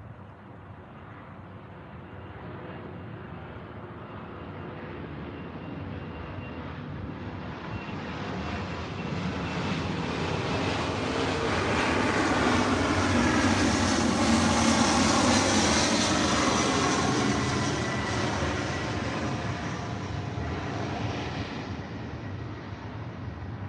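An aircraft passing overhead: a steady engine drone that slowly swells to its loudest about two-thirds of the way through, then fades away.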